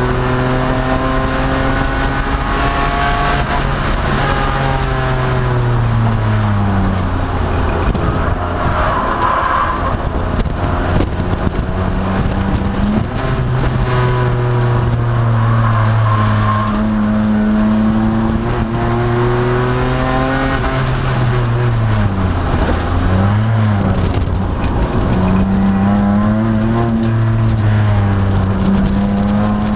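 A 2002 Nissan Maxima race car's V6 engine, heard from inside the car, under hard acceleration, its pitch climbing through the gears and dropping under braking. Twice the pitch falls steeply with quick rises and dips, as on downshifts. Tyres squeal briefly a couple of times.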